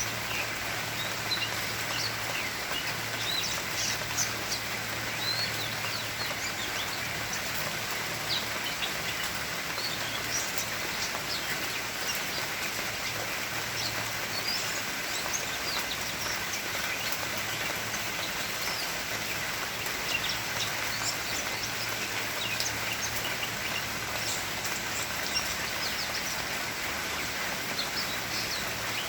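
Steady rain falling, with many short, high bird chirps and calls scattered throughout, over a faint low hum.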